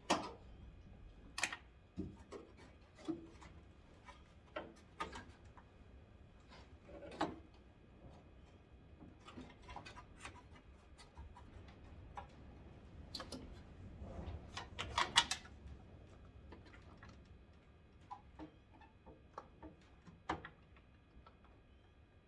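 Hands working at a 1991 Ford Ranger headlight and its stuck wiring plug: scattered clicks and taps, with a quick run of rattling clicks a little past the middle.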